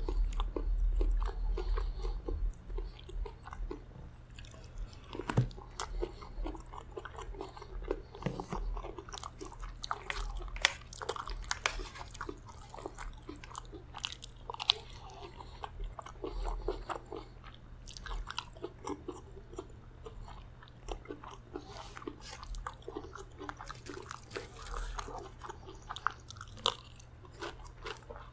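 Close-miked eating: a man chewing and biting mouthfuls of chicken gizzard curry and rice, with wet chewing, crunching and many short sharp clicks.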